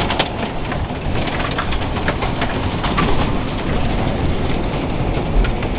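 Hail and heavy rain coming down in a storm: a steady rushing with scattered sharp clacks of hailstones striking, some of them near golf-ball size.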